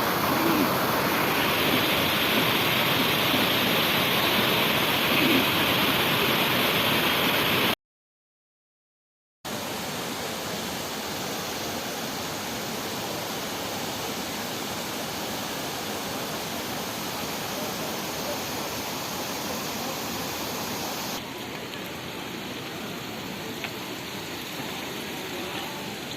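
Waterfall, water rushing in a steady wash of noise. It cuts out to silence for about a second and a half, about 8 seconds in, then comes back somewhat quieter.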